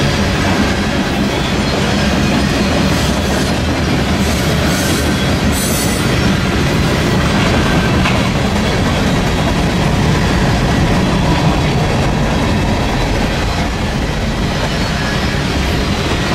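Freight cars of a passing manifest train (gondolas, covered hoppers and tank cars) rolling by at speed: a loud, steady rumble of steel wheels on the rails.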